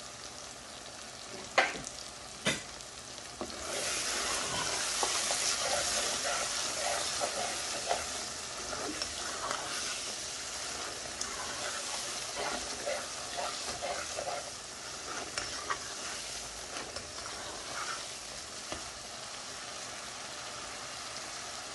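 Lamb karahi sizzling in a metal karahi while it is stirred, with two sharp knocks of the utensil against the pan in the first few seconds. The sizzle gets louder about four seconds in and then slowly settles.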